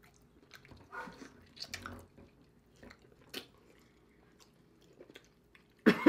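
Close-miked mouth sounds of eating a saucy vegan seafood-style boil by hand: chewing and lip-smacking, with sticky, wet squishes and small clicks of food being pulled apart. A sudden louder sound comes right at the end.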